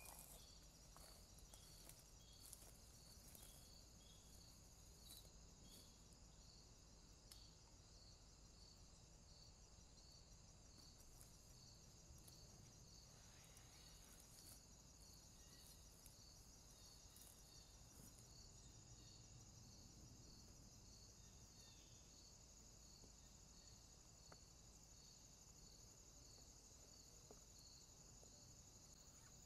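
Faint night insects, crickets among them: a steady high-pitched chirring with a regularly repeating pulsed chirp, and a few light ticks over it.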